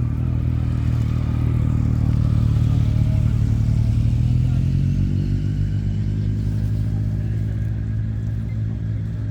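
Motorcycle engine running close by at low revs; its sound swells over the first few seconds, then eases off a little with a slight change of note about halfway through.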